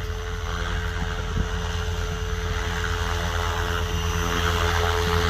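SAB Goblin electric RC helicopter with a 3-blade main rotor in flight: a steady motor and gear whine over the whirr of the rotor blades, growing louder near the end.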